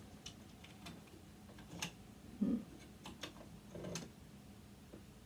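Irregular light clicks and taps of a screwdriver and small metal parts being handled while taking apart a sewing machine motor, with a duller knock about two and a half seconds in.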